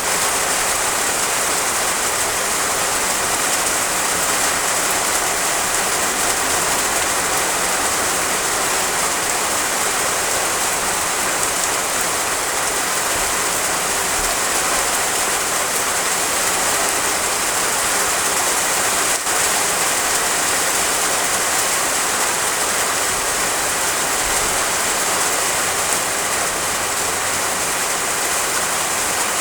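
Heavy rain drumming on roof tiles: a steady, dense hiss of rain, with one brief tick about two-thirds of the way through.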